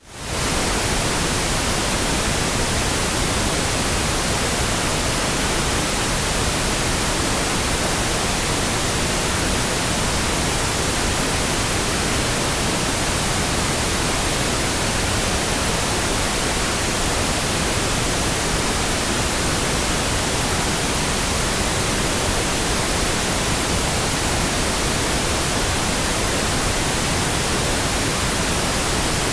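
Pink noise: a steady, even synthetic hiss with no tones or events. It rises quickly from silence at the very start, then holds level.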